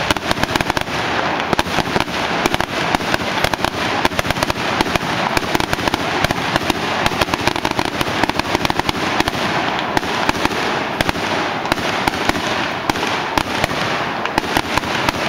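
Fireworks going off: a dense, continuous crackle of many rapid small pops, with louder bangs scattered throughout.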